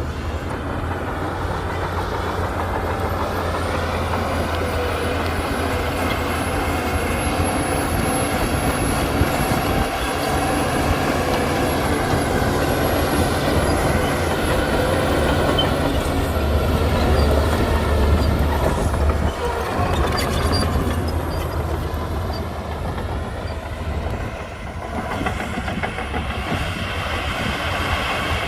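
Shantui bulldozer's diesel engine running steadily under load, with the steel crawler tracks clanking and rattling as it moves. A faint high whine sits over the engine for the first half or so.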